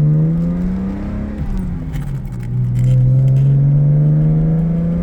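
1985 Jaguar XJ-S engine accelerating hard, its pitch climbing. About a second and a half in it eases off and drops in pitch for an upshift, then climbs again in the next gear.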